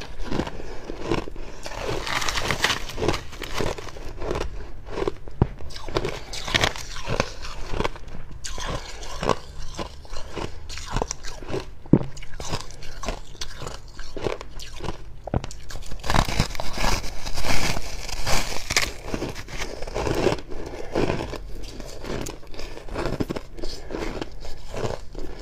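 Close-miked biting and chewing of fluffy freezer frost: dense, irregular dry crunches, busiest and loudest for a few seconds past the middle.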